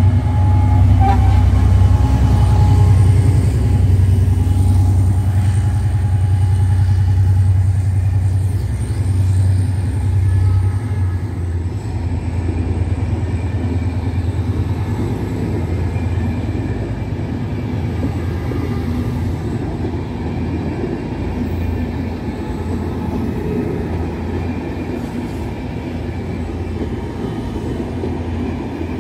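HŽ class 2044 diesel-electric locomotive (EMD GT22HW-2) pulling a passenger train out of the station and past close by. Its engine drones deeply for the first ten seconds or so, then the coaches rumble and clatter by, slowly fading.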